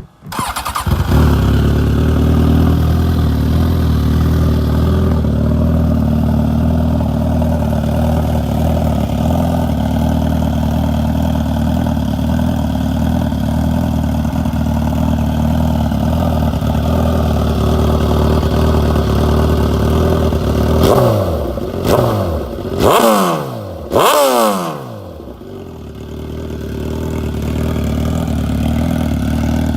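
A 2015 Suzuki GSX-R1000's inline-four engine with a Voodoo aftermarket exhaust starting up and idling steadily. About twenty seconds in it gets four quick throttle blips, the revs rising and falling each time, then it dips and settles back to idle.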